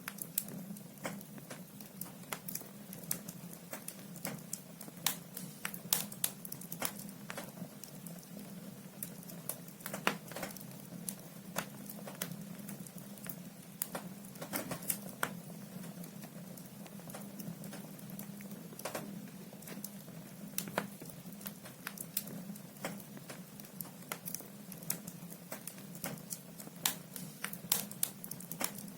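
Firewood burning in a fireplace, crackling with irregular sharp pops and snaps over a steady low hum.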